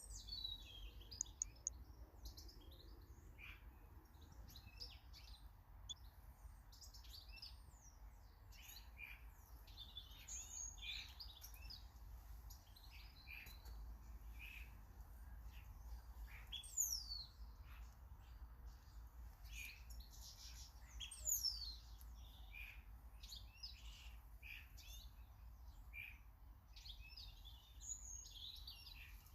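Small garden birds chirping and calling, with many short high notes throughout. Two louder calls fall steeply in pitch, near the middle.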